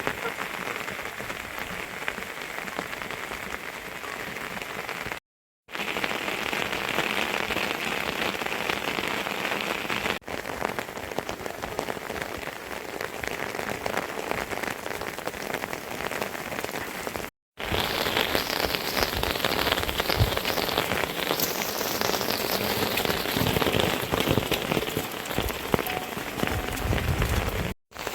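Heavy rain pouring down in a steady hiss. It cuts out briefly a few times and is louder and brighter over the last third.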